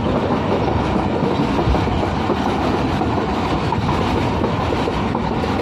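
Jaffer Express passenger train running along the track, heard from inside a coach: steady, loud noise of the wheels on the rails.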